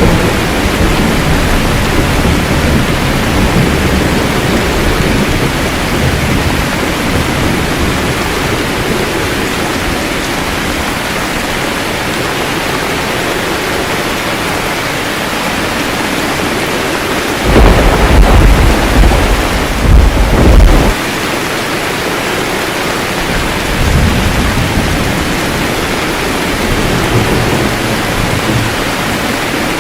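Steady rain falling in a thunderstorm, with low rolling thunder. A loud peal of thunder rumbles for about three seconds just past the middle, and lighter rumbles follow near the end.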